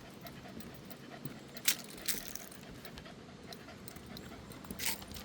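Dogs panting on a hot-day walk, with a few short sharp clicks: two about two seconds in and one near the end.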